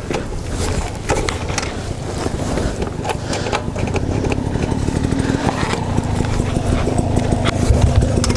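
Dirt bike engine running at low revs, growing louder, with a steady hum setting in about halfway through. Scattered clicks and clatter over it, like stones on the trail.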